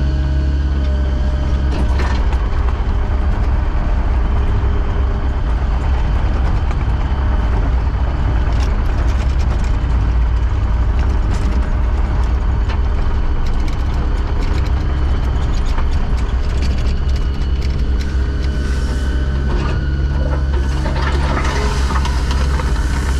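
Engine of heavy construction equipment running steadily at a constant speed, with light metallic rattling and clicking throughout.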